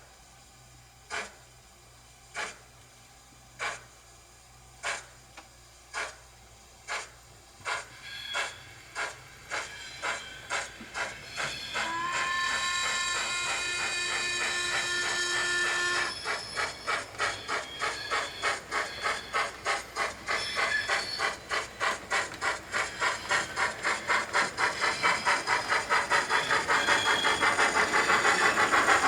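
ESU LokSound v5 sound decoder in a Hornby Coronation Class model steam locomotive playing exhaust chuffs, starting slowly about once a second and quickening steadily as the loco pulls away. About halfway through, a chime steam whistle sounds for about four seconds, and the chuffs keep speeding up and growing louder.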